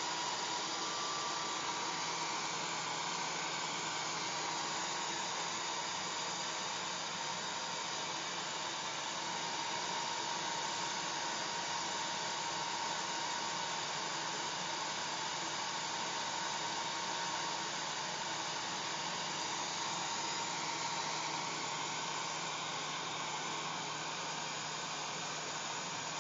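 Hair dryer running steadily: an even rushing hiss of blown air with a faint motor whine.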